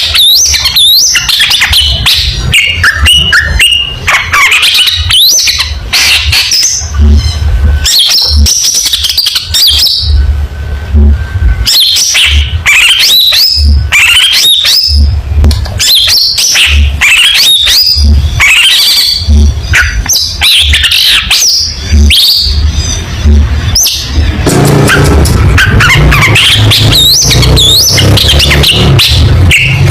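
Long-tailed shrike (cendet) singing loudly: a fast, varied run of sharp chirps, quick sliding whistles and harsh calls, with brief pauses. A heavy low hum pulses beneath the song and grows thicker near the end.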